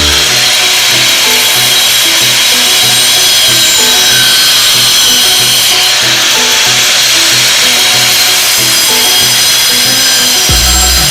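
A power tool running steadily under load, cutting or grinding, starting abruptly and running without a break, over background music.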